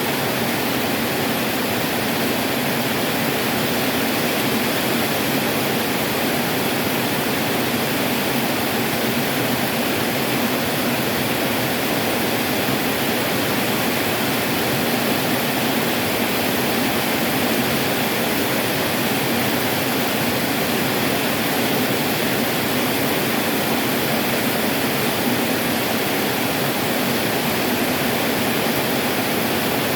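Heavy tropical downpour: a loud, steady, even hiss of rain that does not let up.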